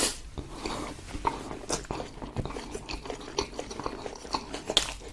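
Close-miked chewing, with many small wet mouth clicks and smacks and one sharper click near the end.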